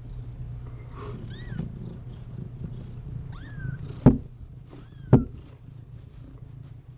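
Cat purring steadily, with three short, high, rising-and-falling kitten mews. Two sharp knocks, about four and five seconds in, are the loudest sounds.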